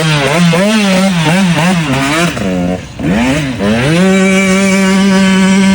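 Dirt bike engine revved in quick repeated throttle blips, its pitch swinging up and down several times a second, dropping off briefly near the middle, then rising and held at steady high revs.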